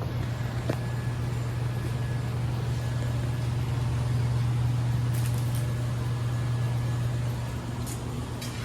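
A vehicle engine idling steadily, a low even hum, with a few faint ticks over it.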